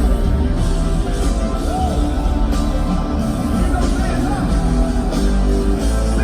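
Loud live band music with a heavy, steady bass line and a gliding melody over it.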